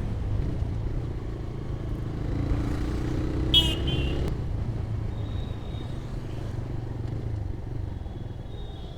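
TVS Raider 125's single-cylinder engine running under way, with wind noise on the microphone. Its pitch rises from about two seconds in, then drops away a little past four seconds. A brief high chirp sounds about three and a half seconds in.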